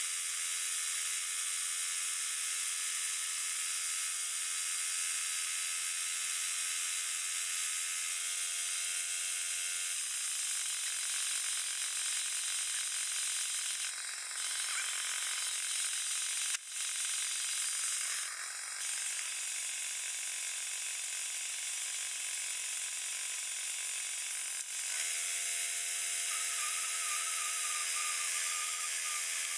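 Sawmill running steadily through a cut in a white oak log, a continuous high whir. The sound dips briefly a few times around the middle.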